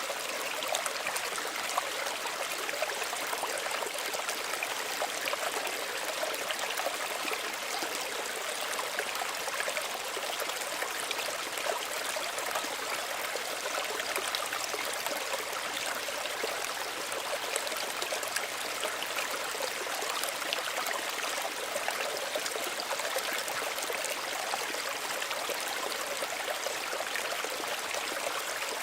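Small stream of running water trickling and babbling steadily over stones, an even rush with fine splashy detail and no low rumble.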